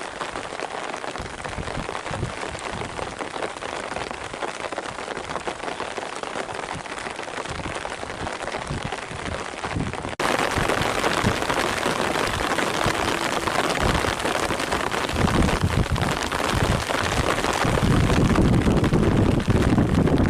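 Heavy rain falling steadily as an even hiss, louder after a cut about ten seconds in, with a low rumble coming and going over the last few seconds.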